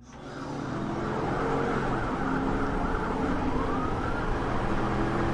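Police cruiser in pursuit: engine and road noise with a siren wailing, fading in over the first second.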